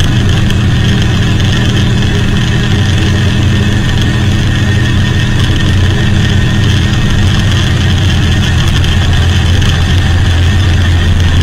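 Buckler 90's 1172 cc Elva-Ford overhead-valve four-cylinder engine running under way at fairly steady revs, loud and continuous.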